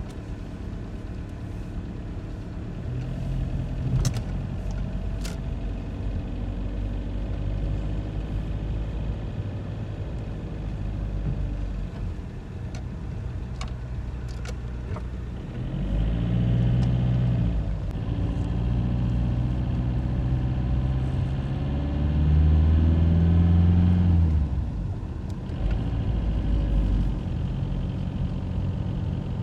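A car driving, with steady engine and road noise. The engine note climbs as it picks up speed about halfway through, and it is loudest a little later before easing off.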